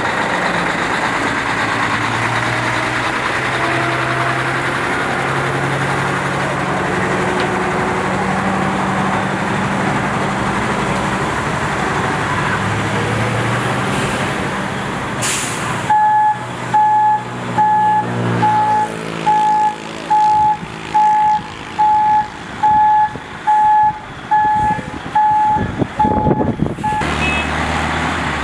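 Truck engine running, a short hiss of air brakes about halfway, then a reversing alarm beeping about once a second for some ten seconds as the truck backs up.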